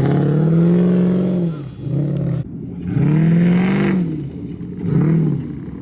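A vehicle engine revving hard three times, its pitch climbing and falling back with each rev, the third one shorter.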